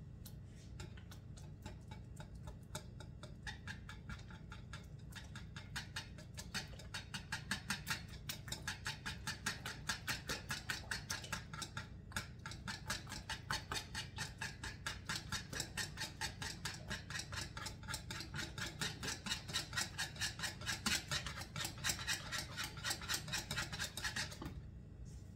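A utensil mixing softened butter in a bowl, with rapid, even clicking strokes against the bowl at about three a second. The strokes pause briefly midway and stop near the end.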